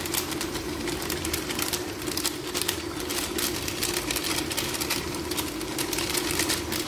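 Chicken and onion-tomato masala frying in an open pressure cooker, a dense steady crackle and sizzle over a constant low hum.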